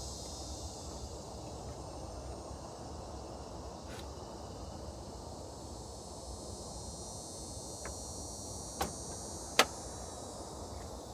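Crickets chirring in a steady chorus, with a few sharp clicks in the second half, the loudest about nine and a half seconds in: a headlight's plastic wiring connector clicking into place.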